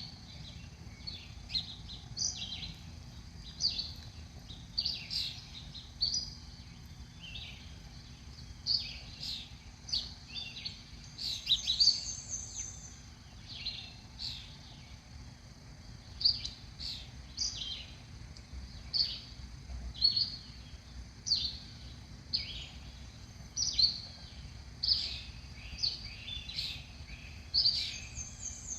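Small songbirds chirping and calling repeatedly, many short high notes in quick succession over a steady low background rumble.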